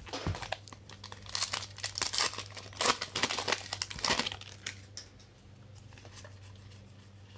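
Plastic trading-card pack wrapper being torn open and crinkled, a flurry of crackles lasting about four seconds that dies down near the end.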